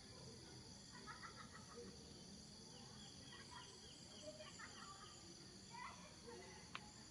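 Faint forest ambience: scattered short bird chirps and quick trills over a steady high insect drone.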